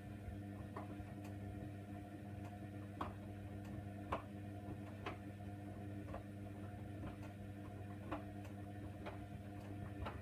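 Hoover Nextra washer dryer running a wash, its motor humming steadily while hard items in the tumbling load click against the drum about once a second.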